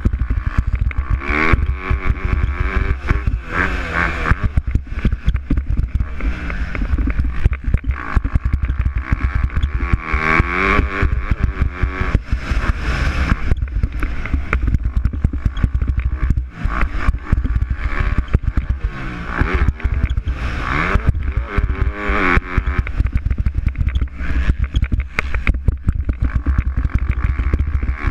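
MX2-class motocross bikes racing, their engines revving up and down again and again as riders open and close the throttle through the track's sections.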